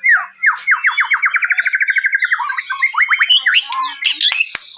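White-rumped shama (murai batu) singing: a fast run of about twenty repeated down-slurred notes, roughly eleven a second, then varied whistled phrases and chirps. A single sharp click comes near the end.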